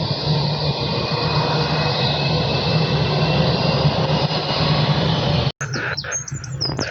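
Aircraft engines running: a steady low hum under a rushing hiss, which cuts off abruptly about five and a half seconds in. Short high bird chirps follow.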